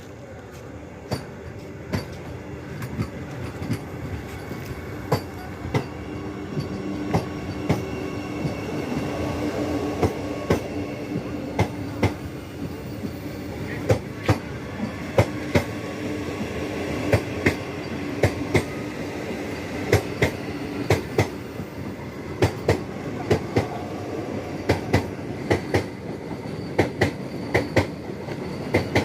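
Vande Bharat electric trainset rolling along the track with a steady rumble, its wheels clacking over rail joints in quick groups of clicks. The sound builds over the first ten seconds or so.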